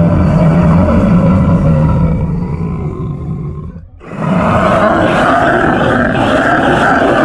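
Monster growl sound effect: a long, low, rough growl that fades out about four seconds in, followed straight away by a second, brighter growl.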